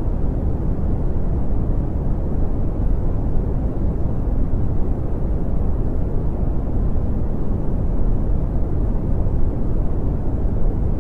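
Brown noise: a steady, deep rumbling hiss, strongest in the bass and dull in the treble, with no change or pattern.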